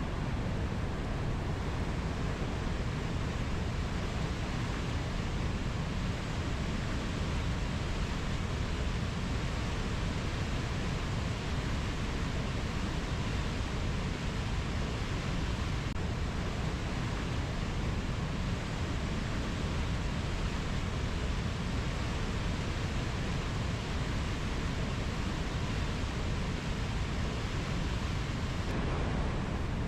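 Rainforest ambience: a steady, even rushing noise, heaviest in the low range, with no distinct calls or knocks.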